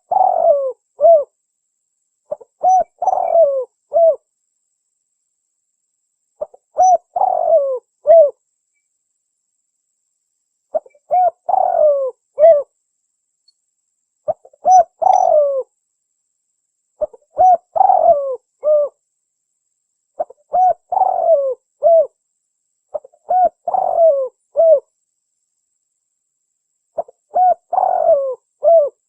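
Spotted dove (tekukur) cooing in a steady series: nine similar phrases, each a short note, a longer falling coo and a short closing note, coming about every three seconds with clean silent gaps between them.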